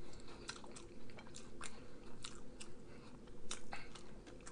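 Close-miked chewing of McDonald's french fries: wet mouth clicks and smacks at irregular intervals, several a second.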